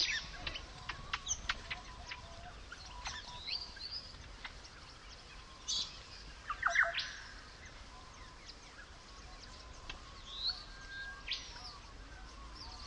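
Birds calling: scattered short chirps and whistles, many sweeping up or down in pitch, with one louder call about two-thirds of the way through.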